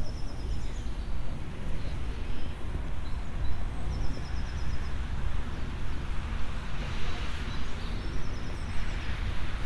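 Outdoor ambience with a steady low rumble, over which a small bird sings a short, rapid series of high notes three times, about four seconds apart, with a few single chirps between.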